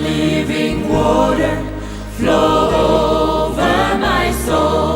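Choir singing worship music over a steady low bass, in sustained phrases.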